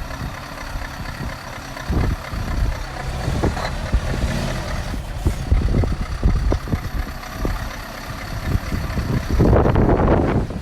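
Scania R520 truck's V8 diesel engine running, a steady low rumble with uneven knocks, getting louder near the end.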